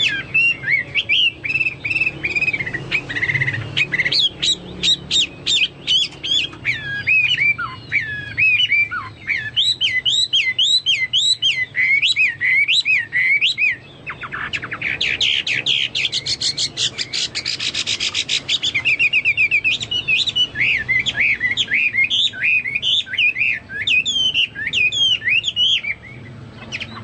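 Chinese hwamei in full song, a continuous string of rapid, varied whistled phrases with a fast buzzy trill in the middle, sung in a style resembling the cucak Papua or cucak mas.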